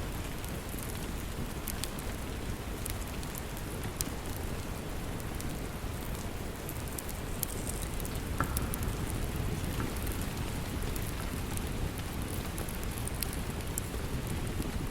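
Steady rain falling, with the scattered sharp pops and crackles of a wood fire in a fireplace, one louder pop about eight seconds in.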